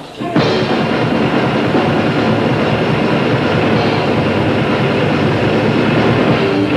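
Grindcore band playing live at full volume: a dense, distorted wall of guitars and drums that starts up just after a brief dip at the beginning and then carries on steadily.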